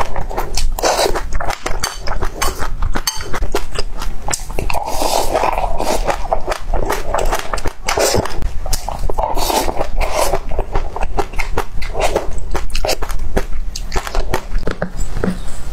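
Close-miked chewing of pink dragon-fruit pieces coated in sesame seeds: wet mouth clicks and smacking, with the seeds crunching, bite after bite.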